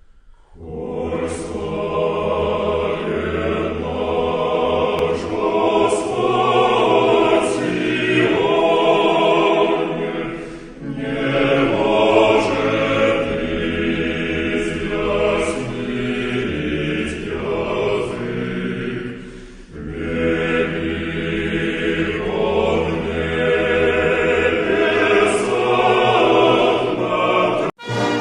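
Choral music: a choir singing in long sustained phrases, with brief lulls about ten and twenty seconds in. It cuts off suddenly near the end.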